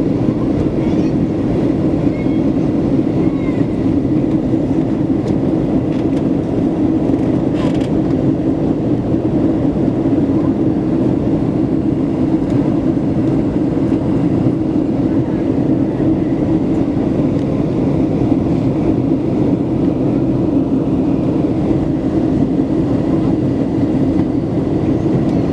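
Steady cabin rumble of a Boeing 737-700 with CFM56-7B engines, heard from inside the passenger cabin, with a brief click about eight seconds in.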